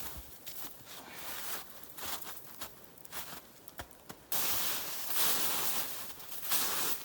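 Crunching footsteps and snow being handled in wet, heavy snow, a series of short crunches. About four seconds in, a sudden loud, steady hiss takes over.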